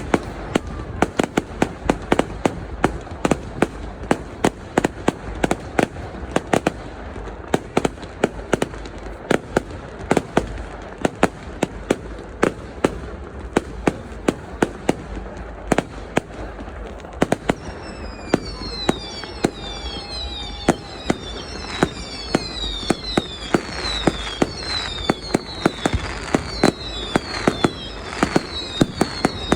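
Fireworks display: a fast run of sharp bangs from bursting shells, several a second. From about two-thirds through, many short whistles falling in pitch join in, over a crackling haze.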